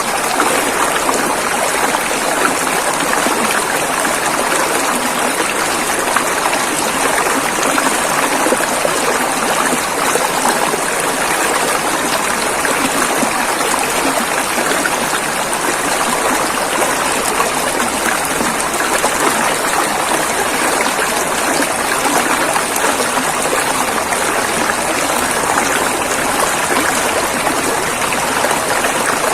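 River water rushing and flowing in a steady, even stream, with no breaks or changes.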